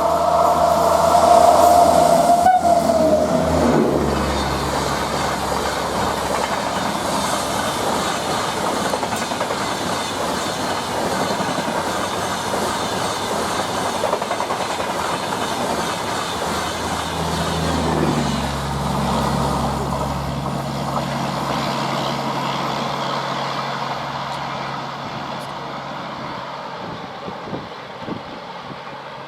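A passing Humsafar Express train sounds its horn, whose pitch drops sharply as it goes by. Then comes the long steady rush and wheel clatter of the coaches passing, with a second, lower tone sliding down about eighteen seconds in. The sound fades near the end.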